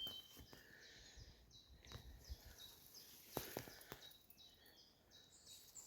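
Faint songbird chirps and song phrases, several short high notes, with a few soft clicks about two and three and a half seconds in.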